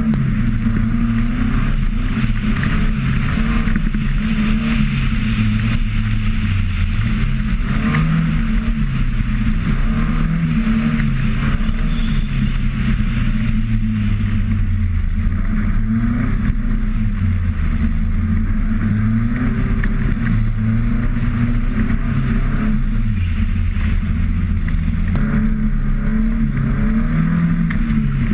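Car engine under hard driving, its revs climbing and dropping again and again through gear changes, with a steady hiss over it.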